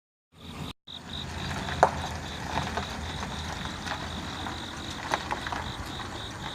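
Insects chirring steadily in a high, evenly pulsing tone over a low rumble of wind, with a few short sharp clicks, the loudest about two seconds in.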